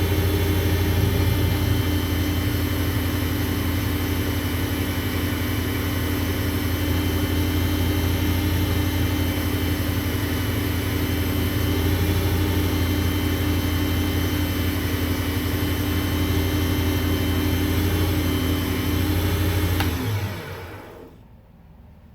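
WEN benchtop lathe running steadily at speed with a low hum while an acrylic pen blank is wet-sanded, then switched off about 20 seconds in and spinning down.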